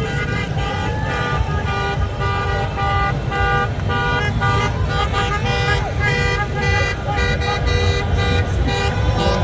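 Many car horns honking at once in overlapping, stop-and-start blasts of several different pitches, over a steady low rumble of traffic.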